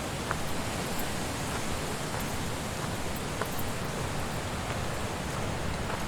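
Wind blowing through trees: a steady rushing with no gusts standing out, and a few faint ticks.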